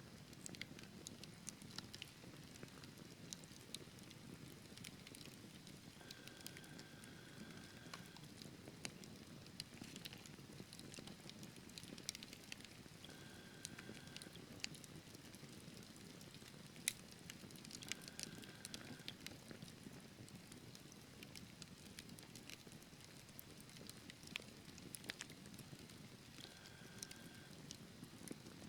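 Wood fire in a fireplace crackling quietly, with scattered sharp pops over the low steady sound of the flames; one pop about halfway through is the loudest. A faint, brief high whistle comes in four times.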